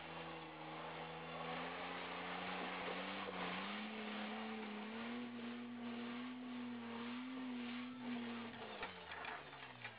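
Four-wheel-drive vehicle's engine running steadily at low revs on a steep dirt hill track. Its note lifts slightly a few seconds in, holds, then falls away in pitch near the end.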